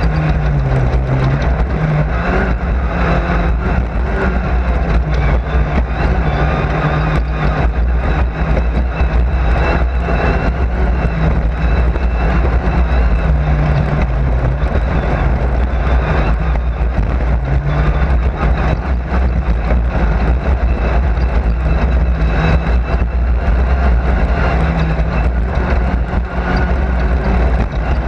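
Race car engine running hard, heard from inside the car over a heavy low rumble, its pitch rising and falling every few seconds as the driver works the throttle.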